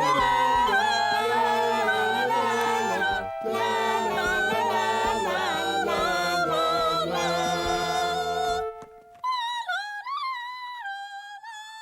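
A group of voices singing a song together over instrumental backing. About nine seconds in, the backing and other voices drop out and a single high voice carries on singing alone.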